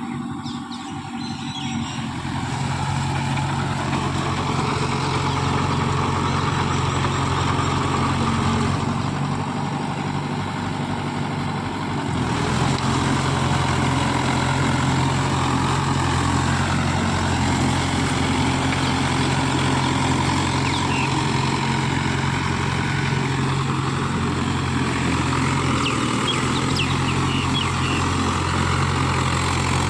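Mahindra Yuvo Tech+ 575 DI tractor's diesel engine running steadily, building up over the first two seconds and stepping louder about twelve seconds in, then holding.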